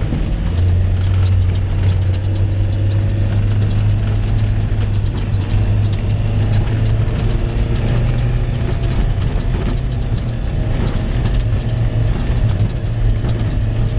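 Jeep's engine running steadily at low revs, a deep, even hum with a rumble under it.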